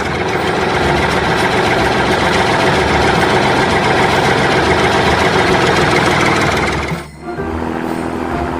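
A loud, steady engine sound effect over music, cutting off about seven seconds in.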